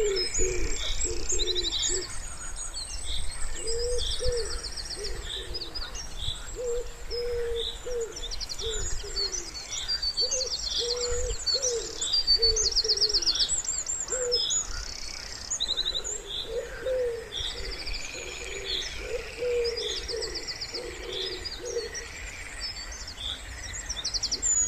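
Wood pigeon cooing in repeated phrases, with small songbirds singing fast high trills and chirps over it.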